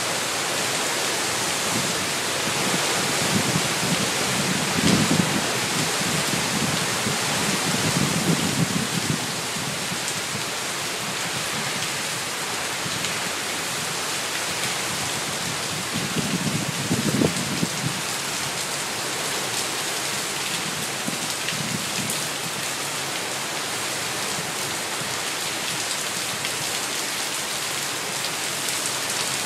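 Heavy tropical-storm squall-line rain pouring steadily onto pavement, with a few brief low swells about 3, 5, 8 and 17 seconds in.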